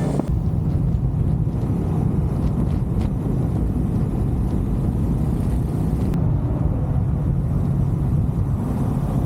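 Honda CB350 motorcycle engine running, a steady low drone.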